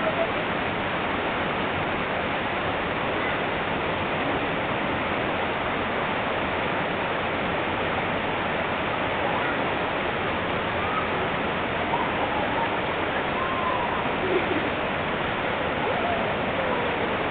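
Waterfall pouring steadily into its pool: a dense, unbroken rush of falling water.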